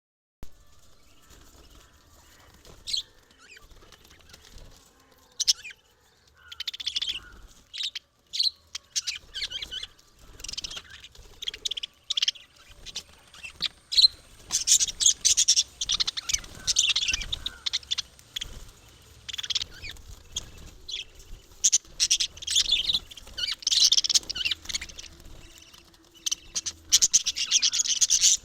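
Small pet parrots (love birds) chattering in quick, high chirps. The chirping is sparse at first and becomes busier and louder about halfway through.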